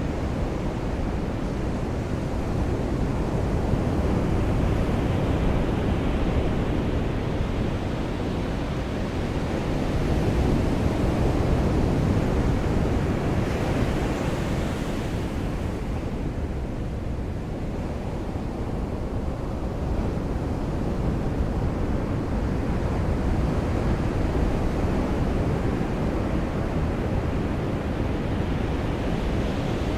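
Ocean surf washing onto a beach, a steady noise that swells and eases slowly over several seconds.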